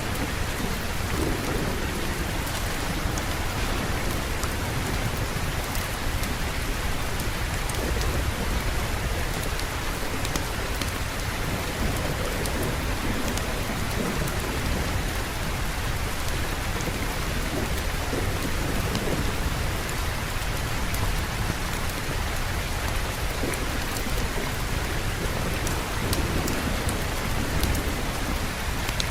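Steady heavy rain with low, continuous rumbling thunder underneath; no single clap stands out.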